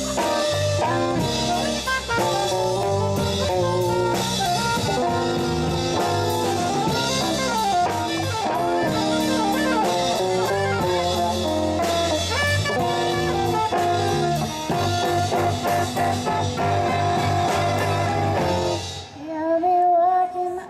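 Live band playing an instrumental blues-jazz passage: drum kit with cymbals, electric bass, electric guitars and saxophone. About 19 seconds in the full band stops, leaving a single wavering held note.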